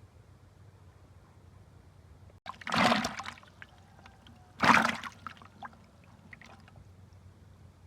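Water splashing twice, a second or two apart, each splash short and loud, with a few small drips after.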